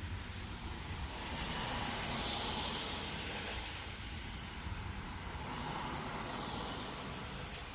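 Traffic passing on a nearby wet road: tyre hiss swells to a peak about two seconds in and fades, then a second, weaker pass near the end.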